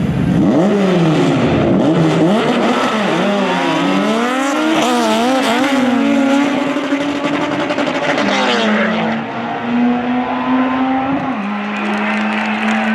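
Supercharged Honda K-series four-cylinder in a rear-engine Mini Cooper drag car, revving hard with the revs rising and falling rapidly through the middle, then settling into a steadier drone near the end.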